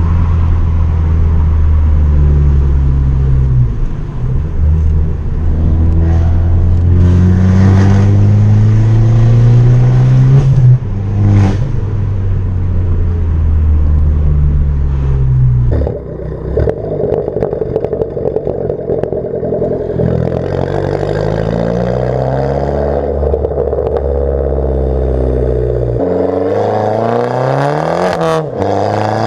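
Abarth 500's 1.4 turbo four-cylinder running through a decatted, straight-piped Bombardone exhaust, accelerating hard with the pitch climbing gear after gear. There is a sharp crack about eleven seconds in. After that the engine eases off with falling pitch, then revs up again near the end.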